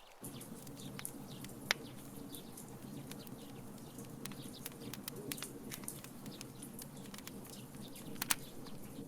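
Wood fire crackling in a fire pit: irregular sharp pops and snaps over a steady low rumble, with two louder pops, one early and one near the end.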